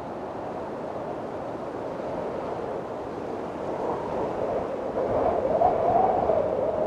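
Wind blowing hard in a storm, a steady rush with a faint wavering howl, gusting stronger from about four seconds in and peaking near the end.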